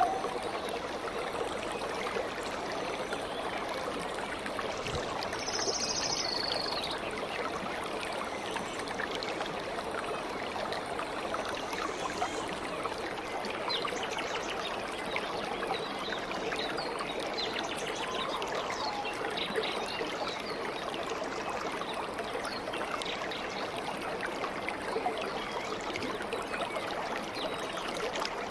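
Stream water flowing and trickling steadily, with a short high chirp about six seconds in.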